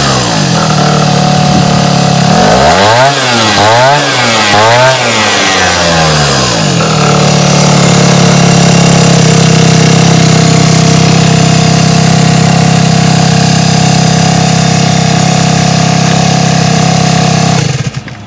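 Gilera Runner 50cc scooter's two-stroke engine, fitted with a Malossi MHR Replica kit, revved up and down about three times, then held at steady high revs for about ten seconds. The sound drops away sharply near the end.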